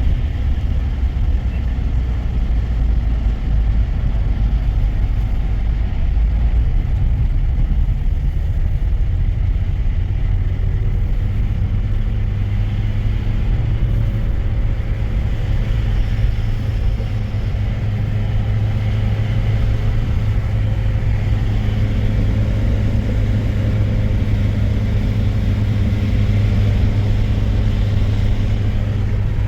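A vehicle engine running steadily with a heavy low rumble. Its hum grows a little stronger about halfway through.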